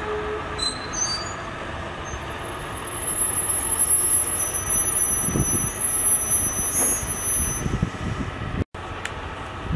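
JR 209-series electric train cars rolling slowly past on yard track, wheels rumbling over the rails, louder after about three seconds. Thin, high-pitched squealing from the wheels and brakes runs over the rumble until near the end. The sound cuts out for an instant just before the end.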